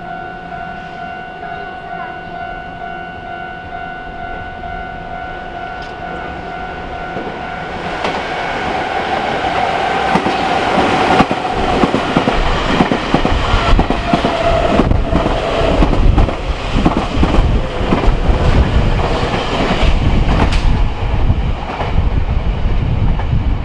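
Nankai 7000 series electric train approaching and running past, its wheels clacking over the rail joints. Steady tones are heard at first, and about eight seconds in the train grows much louder and stays loud.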